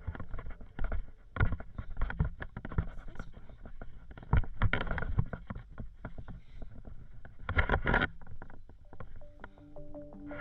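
Irregular knocks, scuffs and clicks of a hiker moving over rock, with a low rumble of wind on the microphone and a few louder gusts of noise.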